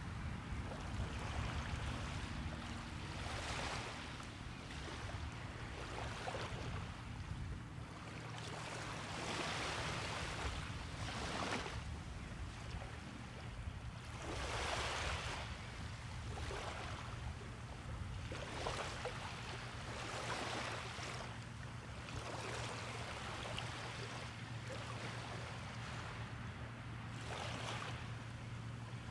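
Small waves breaking and washing on a beach, one surge of surf every second or two, over a steady low hum.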